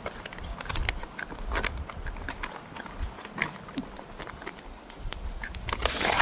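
Close-up rustling and scattered clicks of gear and clothing being handled, with a louder rustle near the end.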